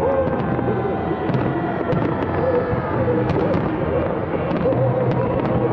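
Fireworks display: many sharp pops and crackles from bursting shells, heard over music with sustained tones that plays throughout.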